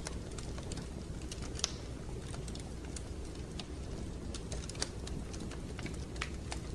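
Fire burning in a fireplace: a steady low rumble of flames with irregular sharp crackles and pops, the loudest about a second and a half in.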